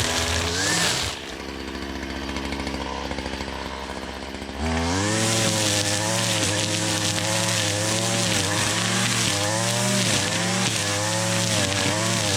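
Gas string trimmer (weed eater) with a trimmer head running at high revs, dropping to idle about a second in, then throttled back up a little before five seconds in, its pitch wavering as it cuts through tall grass and weeds.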